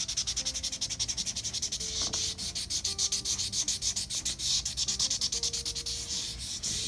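Ohuhu alcohol marker scribbling quickly back and forth on sketchbook paper: a steady run of fast, scratchy strokes, several a second, as a sky background is coloured in.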